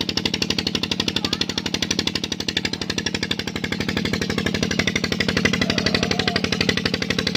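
Tube well engine running steadily with a rapid, even chugging.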